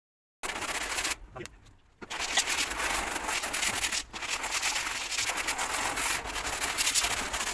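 Steady, rough rubbing against a surface, made of many fine scratchy strokes, with a short pause about a second in.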